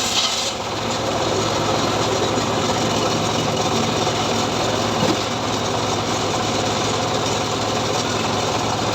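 The small engine of a homemade wood-cutting saw rig runs steadily after the blade's sawing noise through the log stops, about half a second in.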